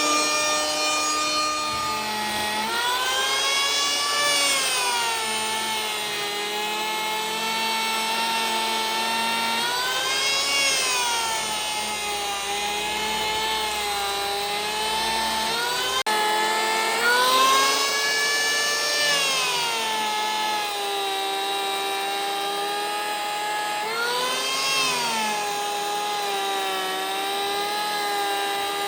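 Electric power tool motor whining at a steady high pitch that sags and swings back up every several seconds as it is worked into the wood.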